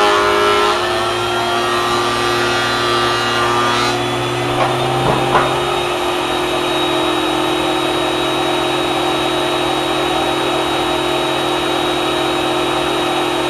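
Portable thickness planer running with a loud, steady whine while planing boards. Its tone shifts about a second in and again around four seconds, with two short knocks a little after that.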